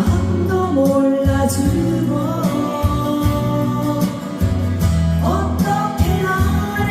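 Live singing of a Korean pop ballad, the voice holding long, sliding notes over an accompaniment of guitar and a steady bass line with a beat.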